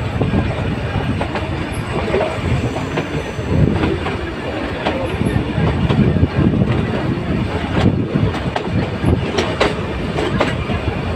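Nilgiri Mountain Railway metre-gauge train running on the track: a steady rumble of the wheels, with scattered clacks as they pass over the rail joints.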